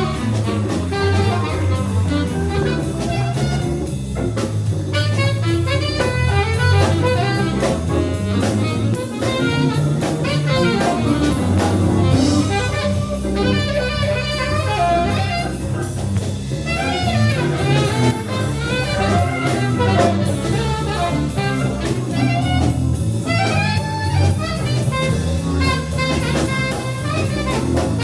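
A live jazz combo playing, with a saxophone taking the lead line over bass and drum kit.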